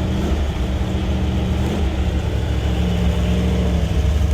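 Old car engine running with a steady low rumble while warming up, its pitch lifting slightly about three seconds in.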